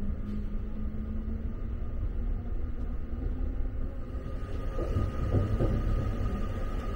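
Interior of a Saphir Odoriko (JR East E261 series) electric train pulling out of a station and picking up speed: a low running rumble from the cabin, with a steady high-pitched whine joining about four and a half seconds in.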